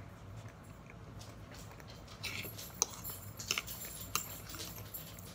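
Close-up chewing of soft leftover chicken with wet mouth sounds. In the second half a fork scrapes and clicks several times against a ceramic plate, the loudest click about three seconds in.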